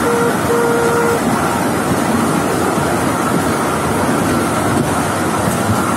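Steady running noise of a small open tourist train riding along its track, with wind buffeting the microphone. In the first second a short pitched tone sounds twice.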